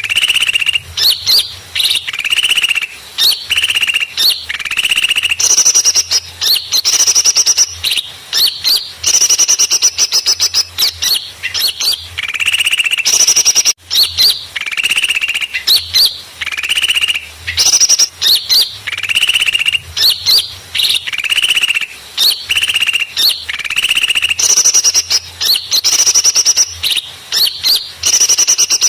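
Busy calling of small songbirds: loud, rapid chirps and trills repeating one after another without pause. It is a pikat lure call, played to draw small wild birds in for trapping.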